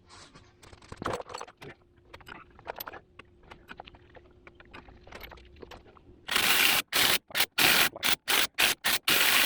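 Small metal clicks and scrapes as the axle flange bolts are handled and started by hand, then an impact wrench driving the bolts home in about ten short, loud trigger bursts.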